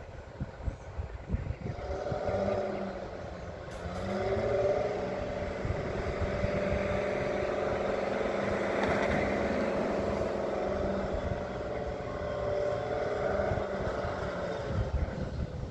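An engine rises in speed about two seconds in, runs steadily at a higher pitch, and drops back shortly before the end. Wind gusts buffet the microphone.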